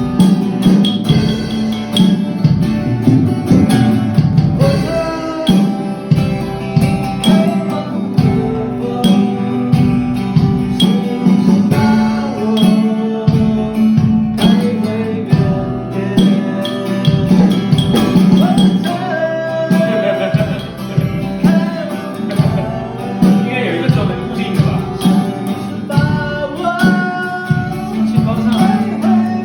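A band playing a song: guitar over a steady beat, with a tambourine shaking along.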